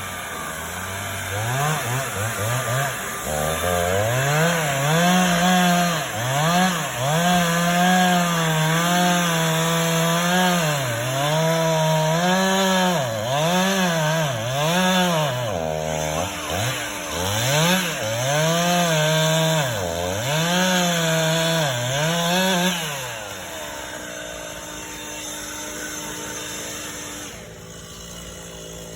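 Chainsaw cutting a pine tree, held at high revs with repeated throttle dips and recoveries. About 23 seconds in it drops back to a low idle.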